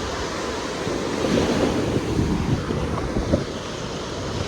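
Sea waves washing onto a sandy beach, swelling and easing, with wind buffeting the microphone.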